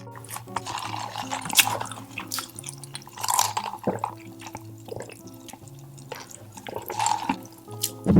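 Close-miked eating sounds: wet chewing, smacking and crunching, in many short bursts, over quiet background music.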